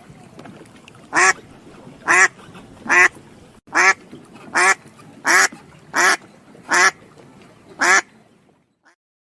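Duck quacking: nine loud quacks in an even series, a little under one a second.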